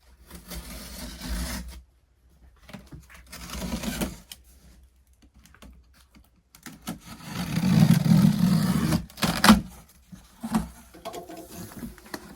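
A cardboard box being opened: irregular bursts of scraping, tearing and rustling, with a sharp snap about nine and a half seconds in and some small knocks after it.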